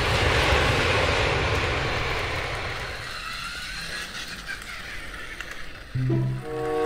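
A vehicle-like noise that fades away over the first four seconds or so. About six seconds in, a short run of held horn-like notes begins.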